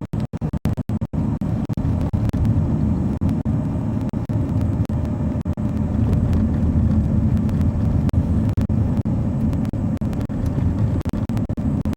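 Lorry engine running steadily under way, a continuous low rumble, with a few split-second cut-outs in the sound.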